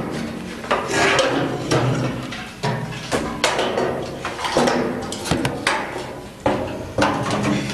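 A series of sharp knocks and clunks, about a dozen, coming irregularly half a second to a second apart, each ringing briefly.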